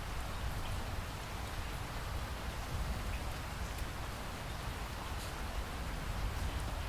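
Steady heavy rainfall, an even hiss of rain with a deep rumble underneath and scattered drop ticks.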